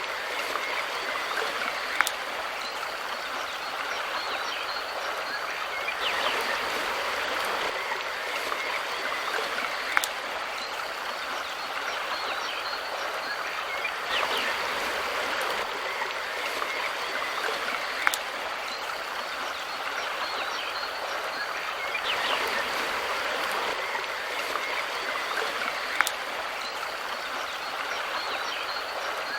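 Mountain river stream running with a steady rush of water. A sharp click and a gentle swell in the rushing recur about every eight seconds.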